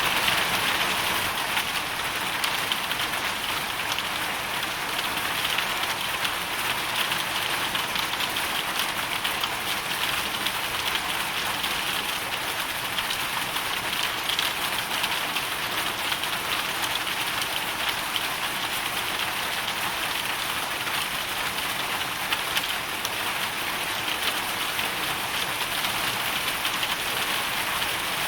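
Hailstorm: a steady, dense patter of hailstones and rain striking a surface, many fine ticks over a continuous hiss.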